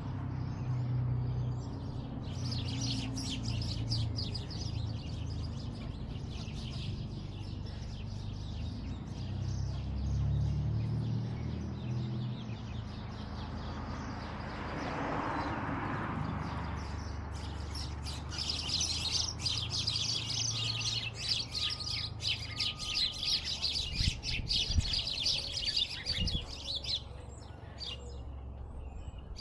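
Small birds chirping in fast, dense twittering: a short run in the first few seconds, then a longer run through most of the second half, over a low steady rumble.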